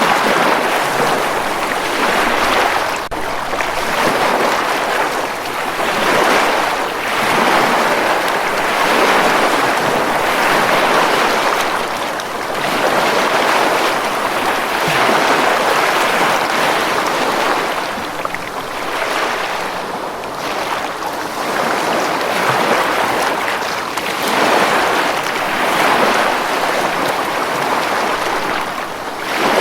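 Ocean surf breaking on a beach, a steady wash of noise that swells and recedes every few seconds as waves roll in.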